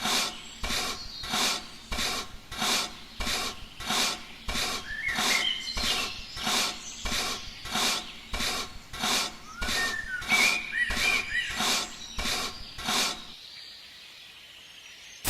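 Rhythmic rasping strokes by hand on a hard surface, about three every two seconds, stopping about 13 seconds in. Birds chirp a few times.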